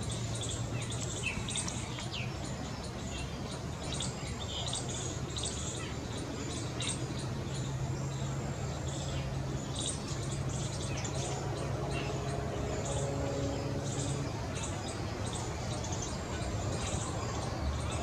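Birds chirping: short, high chirps come irregularly several times a second, over a low steady hum.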